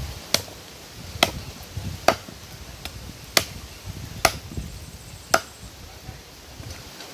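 A knife chopping chicken back into small pieces: six sharp chops, roughly a second apart, with wind rumbling on the microphone.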